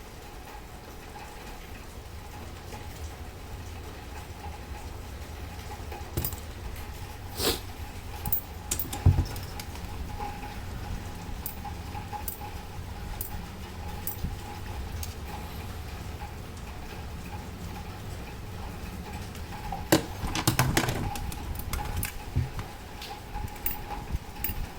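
Irregular small metallic clicks and clinks from handling the parts of a grandfather clock movement, in clusters, over a steady low hum and a faint constant tone.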